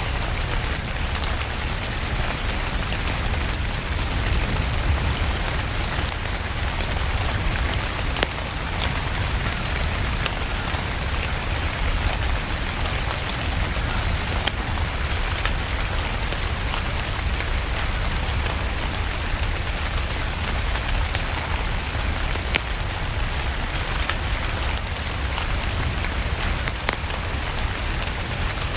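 Steady rain falling, mixed with a wood fire in a fireplace crackling, its small sharp pops scattered throughout over a low rumble.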